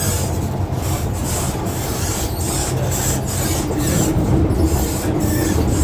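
MTR Kwun Tong Line M-Train electric multiple unit running between stations, heard inside the carriage: a steady low rumble of wheels on rail with a repeated rushing hiss over it. A low hum comes in about three and a half seconds in.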